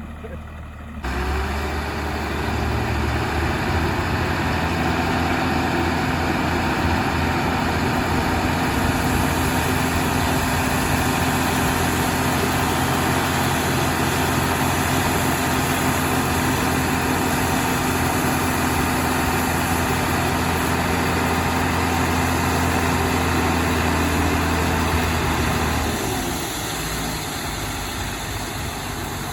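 JCB 3DX backhoe loader's diesel engine running hard at a steady speed. It comes up suddenly about a second in and eases to a lower level near the end.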